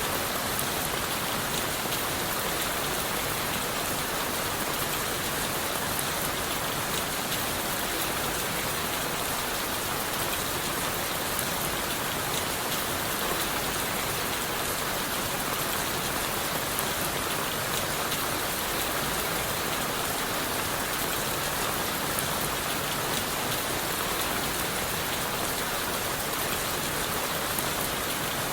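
Steady rain falling on leaves and wood, with individual drops ticking throughout at an even level.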